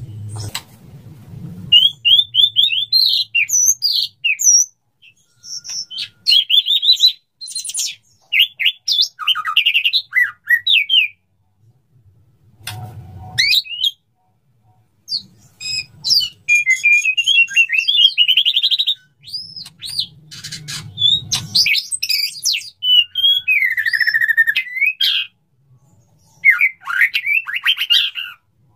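Male white-rumped shama singing its courtship song to a female: rapid, varied phrases of whistles, trills and chattering notes in bursts with short pauses. A few dull thumps are heard, one about halfway through and another about two-thirds of the way.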